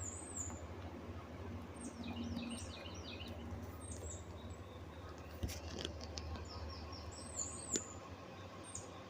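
Wild birds chirping: scattered groups of short, high chirps that sweep down in pitch, over a steady low hum.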